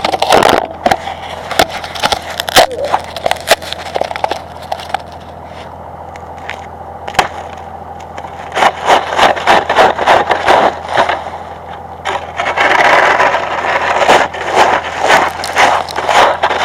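Irregular crunching and cracking of ice-crusted sleet, a layer of sleet glazed with freezing rain breaking under footsteps, busiest in the second half, over a steady low hum.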